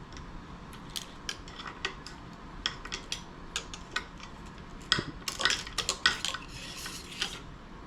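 Metal hand tool clicking and scraping against the metal water pump parts of an outboard lower unit: a string of sharp metallic clicks, growing into a busier flurry of scrapes and clinks about five seconds in.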